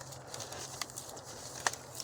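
Dry twigs cracking underfoot on a forest floor, over faint rustling: two sharp cracks about a second apart, the second louder.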